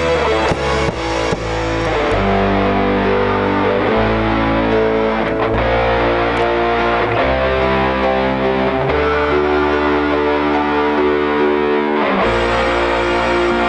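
Instrumental band passage led by a distorted electric guitar playing held notes over bass, with a few sharp drum hits in the first couple of seconds.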